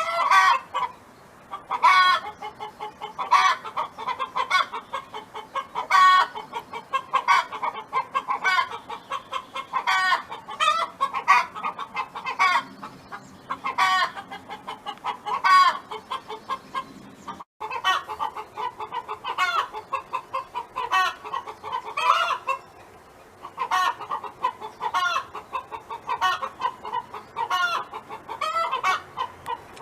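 A domestic hen clucking and cackling without a break, in the repeated phrases of a hen's 'song'. A louder accented call comes about every second or so, with quicker, softer clucks between, and there is a brief dropout just past halfway.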